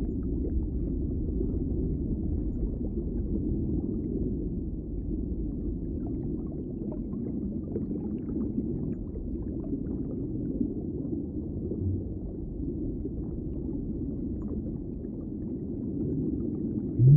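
Underwater ambience: a steady, muffled low rumble with faint scattered clicks.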